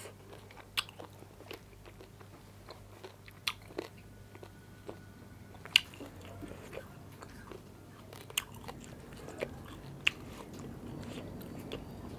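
Close-up eating of a rice, dal and meat meal: wet chewing and mouth clicks, broken by a handful of sharp clicks, the loudest about six and ten seconds in.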